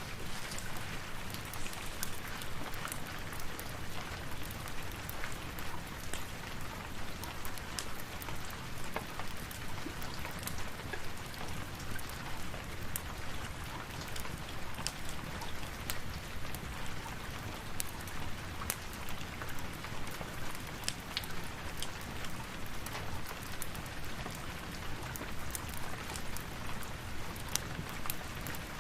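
Steady rain, an even hiss throughout, mixed with frequent sharp crackles from a fireplace.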